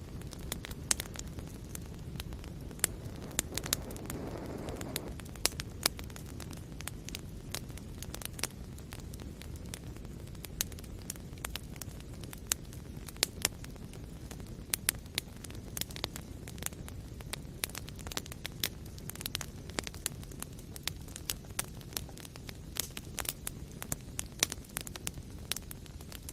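Wood fire burning in a fireplace: a steady low rumble with sharp, irregular crackles and pops throughout, and a brief soft whoosh of flame about four seconds in.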